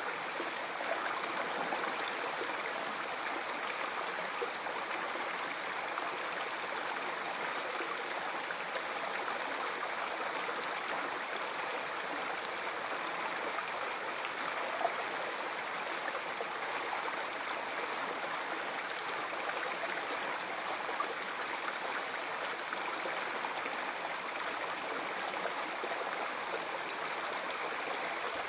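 River water flowing steadily, a continuous rushing and babbling with small splashes scattered through it.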